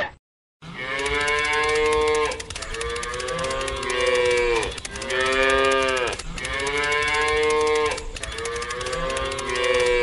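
Cattle mooing: a string of about five long, drawn-out moos one after another, following a brief moment of silence at the start.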